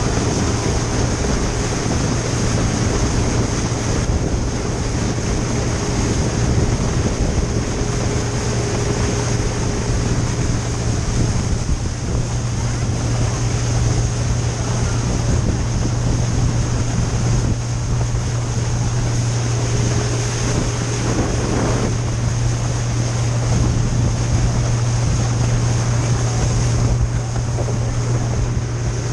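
A small boat's engine running at a steady drone under way, with water rushing past the hull and wind buffeting the microphone.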